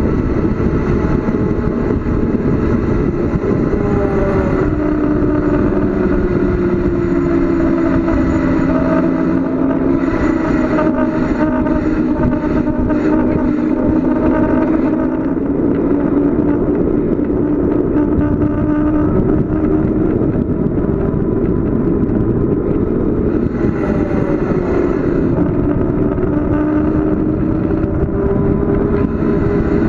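Bicycle coasting downhill fast: steady wind and road noise on the microphone, with a hum that slowly rises and falls in pitch.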